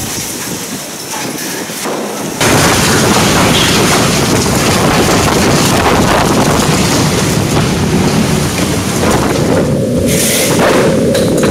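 Hurricane Odile's wind and rain blowing hard, a dense noise that surges suddenly louder about two seconds in and stays loud.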